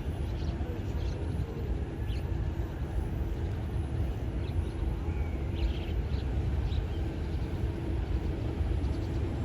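Airbus A380's jet engines giving a steady low rumble on landing approach, with a faint steady hum over it. A few short high chirps, typical of small birds, come through now and then.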